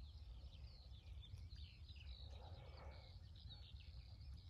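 Faint chorus of small birds chirping, many short overlapping calls, over a low steady rumble of background noise.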